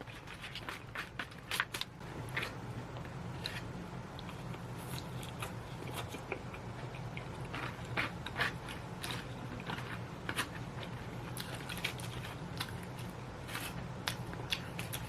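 Close-up crunching and chewing of crispy Korean fried chicken, irregular crisp bites and crackles every second or so, over a low steady hum.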